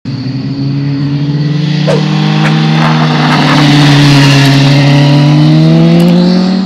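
BMW S1000RR sportbike's inline-four engine running at high revs as the bike passes close and pulls away. Its pitch climbs slowly, and it is loudest about four seconds in.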